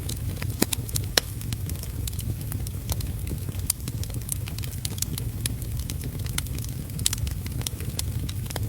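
Wood fire crackling in a fireplace, with irregular sharp pops over a steady low rumble, mixed with a steady hiss of heavy rain.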